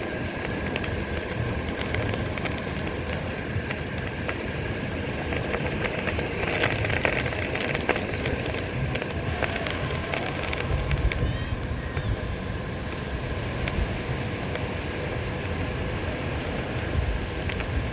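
Onewheel electric board rolling over shell-strewn beach sand, its tyre crunching shells in a constant crackle, with a steady high tone underneath. Wind rumbles on the microphone in gusts, most strongly around the middle and near the end.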